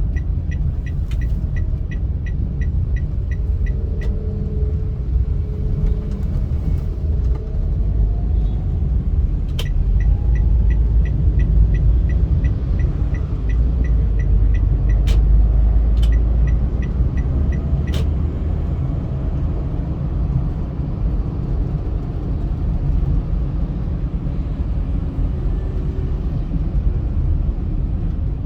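A car driving on a highway: steady low road and engine rumble with faint rising and falling engine pitches. Twice, rapid, even ticking runs for a few seconds, about four ticks a second, and a few single sharp clicks stand out over it.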